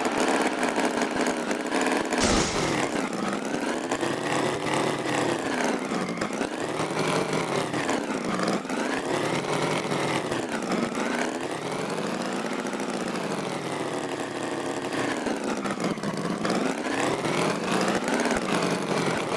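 Tractor engine running, its pitch rising and falling every couple of seconds as it revs up and down. A short noisy burst comes about two seconds in.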